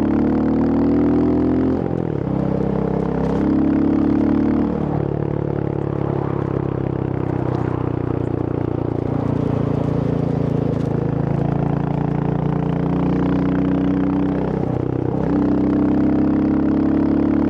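Royal Enfield Hunter 350's single-cylinder engine under way, pulling up through the gears: its note climbs, drops at a gear change about two seconds in, climbs again, shifts again near five seconds, holds a steady cruise, then shifts once more near the end and climbs.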